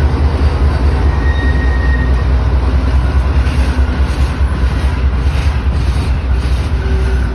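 Coal train's cars rolling past at close range: a steady, loud rumble of steel wheels on rail, with a faint thin squeal briefly between about one and two seconds in.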